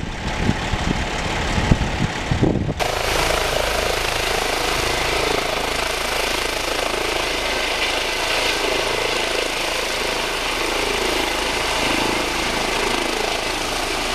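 Medical evacuation helicopter running, its rotor and engine noise loud and continuous. About three seconds in, the sound changes abruptly from low pulsing thumps to a steady, fuller noise.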